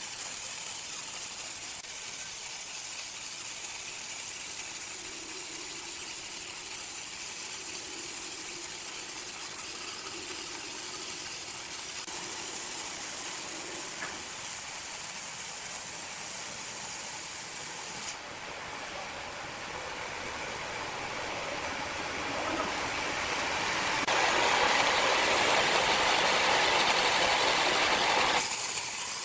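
Sawmill machinery running with a steady, hissy mechanical noise. The sound changes abruptly about two-thirds of the way through, then grows louder and fuller near the end.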